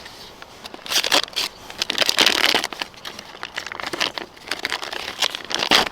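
Irregular crinkling and crackling of plastic wrapping being handled and opened around a block of homemade smoked cheddar.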